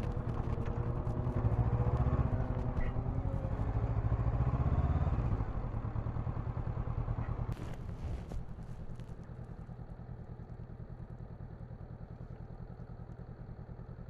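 Honda NX500's parallel-twin engine running, loud at first, then dropping away over a few seconds to a quieter, steady idle. There are a couple of sharp clicks about halfway through.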